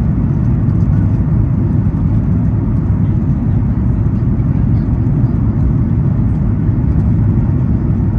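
Steady low rumble of airflow and CFM LEAP-1B engines inside the cabin of a Boeing 737 MAX 8 airliner on final approach.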